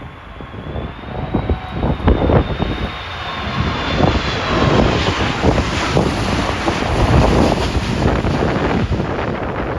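Jet airliner passing low overhead on its landing approach, its engine noise swelling to a peak in the second half with a faint high whine, while gusty wind buffets the microphone.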